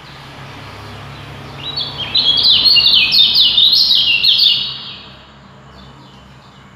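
Songbird singing a fast, dense burst of quick high chirping notes, starting about a second and a half in and lasting about three seconds.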